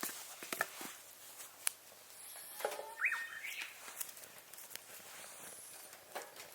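Burning firewood crackling, with a few irregular sharp pops. About three seconds in there is a brief rising squeak.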